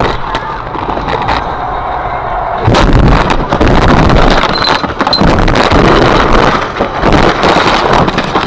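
Car dashcam audio with a vehicle running. About three seconds in, a sudden loud, rough noise full of knocks and bangs starts and goes on unevenly, typical of a collision.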